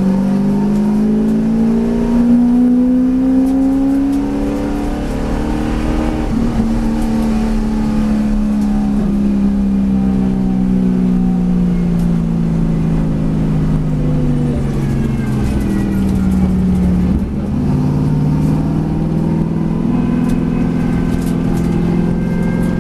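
V8 race car engine under load, rising in pitch and then dropping about six seconds in at a gear change. The note then falls slowly as the car slows, steps up again after a short dip near the end and climbs back to a steady pitch as the car drives on.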